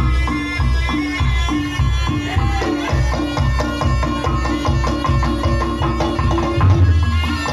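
Traditional Reog Ponorogo music: drums keep a steady, even beat under held melodic tones from the ensemble.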